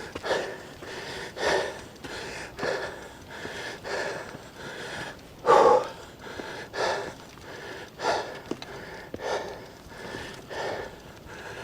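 A man breathing hard from exertion: heavy, noisy breaths about every second and a bit, one louder breath near the middle.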